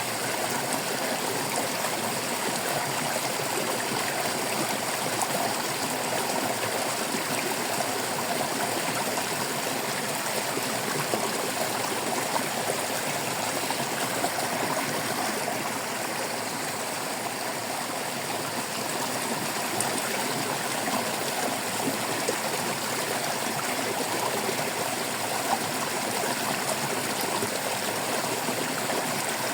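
Flowing stream water babbling steadily, a continuous splashing rush with no change.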